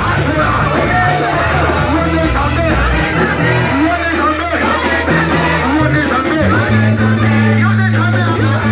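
Live worship music from a church band: bass guitar playing held notes under singing voices and guitar.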